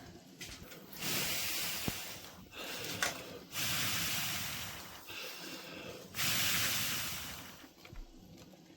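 Hissing from hot cooking, in three bursts that each start suddenly and fade over a second or so.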